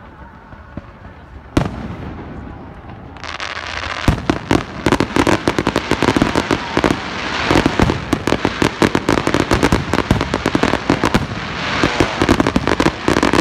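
Fireworks display: one sharp bang about a second and a half in, then from about four seconds a dense, rapid string of bangs and crackles that keeps going.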